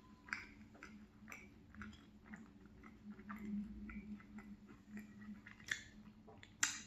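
Close-up chewing of a mouthful of salmon pie: soft, wet mouth clicks and smacks at an uneven pace, with a sharper smack near the end.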